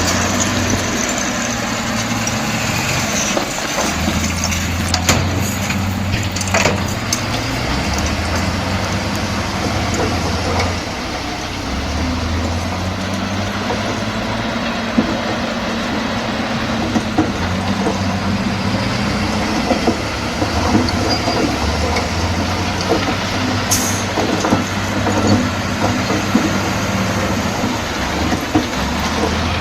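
Bulldozer's diesel engine running under varying load, its drone rising and falling as the machine works, with a few sharp metallic clanks.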